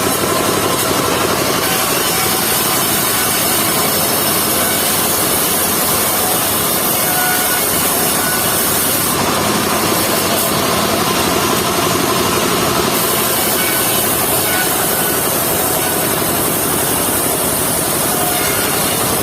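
Engine-driven mobile circular sawmill running steadily, its engine and blade making one loud, continuous sound, with a high hiss that grows and fades a few times.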